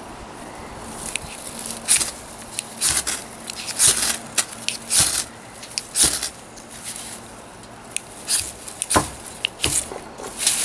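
Ferro rod being struck with a scraper into a dry-grass tinder bundle: about a dozen short, hissing scrapes at an irregular pace, trying to catch a spark in the grass.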